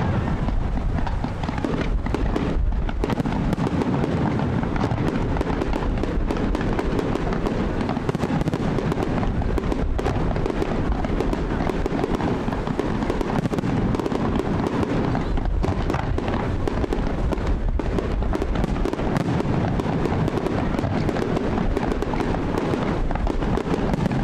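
A fireworks display: aerial shells firing and bursting in quick succession, many sharp reports overlapping into a dense, unbroken barrage.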